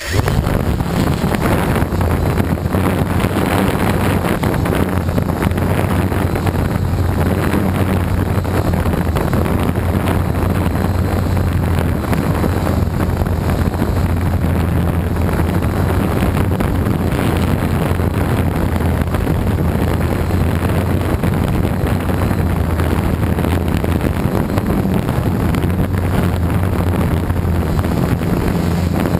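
Gaui 330X quadcopter's electric motors and propellers running in flight, a steady low hum heard from the onboard GoPro, with wind on the microphone. The sound comes in suddenly at the start and then holds steady.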